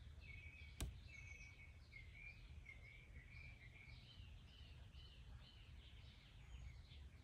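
Faint birds chirping, a steady run of short quick notes, over a low rumble. A single sharp click comes a little under a second in.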